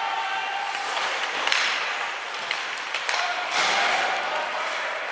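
Ice hockey game sound in a rink: a steady noisy arena haze with spectators' voices, and a few sharp knocks from play on the ice.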